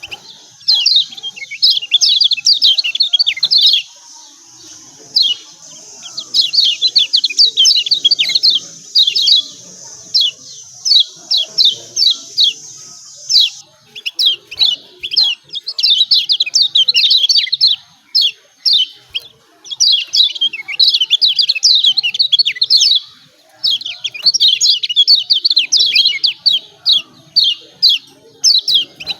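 Kecial kuning (Lombok yellow white-eye) singing its fast 'ciak ciak' chatter. Phrases of rapid, high, downward-sweeping notes run a few seconds each, broken by short pauses. It is the lively song used as a lure to make lazy white-eyes start singing.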